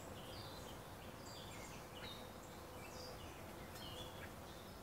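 Faint outdoor background with several short, high bird chirps.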